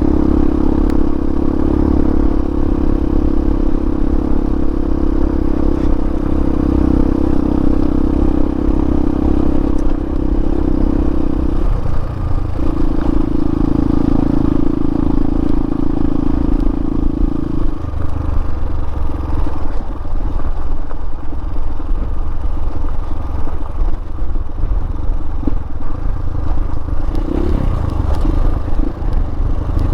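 Hawk 250 dual-sport motorcycle's single-cylinder engine running under way over a rough rocky dirt road. It holds a steady pitch, dips briefly about twelve seconds in, then after about eighteen seconds runs lower and more unevenly, with clatter and a few knocks.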